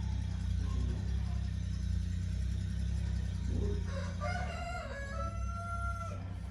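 A rooster crowing, one long call starting a little past halfway and ending in a held note, over a steady low hum.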